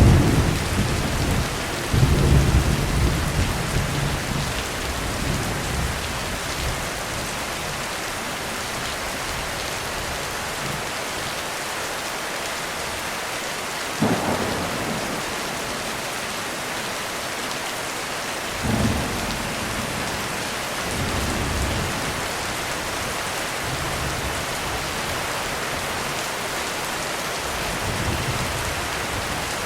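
Heavy rain falling steadily through a thunderstorm. Low thunder rolls in the first few seconds, then a sharp crack about halfway through with a short rumble after it. Several lighter rumbles follow toward the end.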